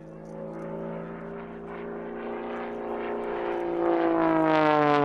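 Pitts S-2S aerobatic biplane's 300 hp piston engine and propeller, growing louder as it approaches, its pitch dropping as it passes near the end.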